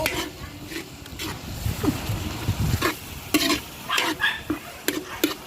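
Pansit noodles being stir-fried in a pan over a sizzle, with a cooking utensil scraping and knocking against the pan at an irregular pace.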